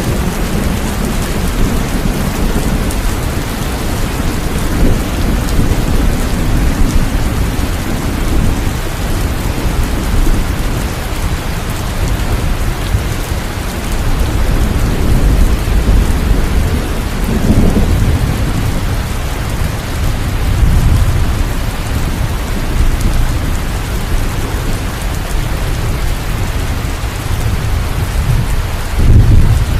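Steady heavy rain falling, with low thunder rumbling in slow swells underneath, one swell building near the end.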